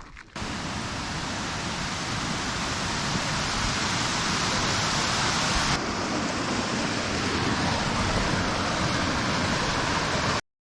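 Waterfall: a steady, loud rush of falling water that starts suddenly, shifts slightly about halfway through, and cuts off abruptly near the end.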